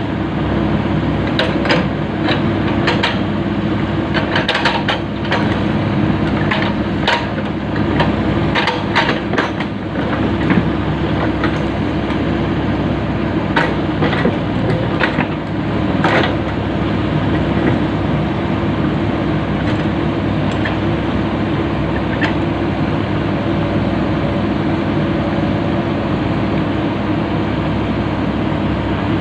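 Komatsu PC-200 excavator's diesel engine running steadily, with many sharp metal clanks and knocks through the first half as the track is fitted, then fewer.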